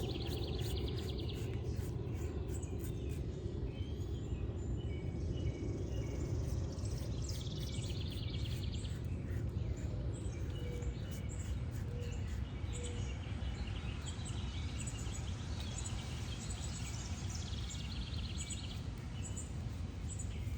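Outdoor ambience: birds chirping and trilling repeatedly over a steady low rumble.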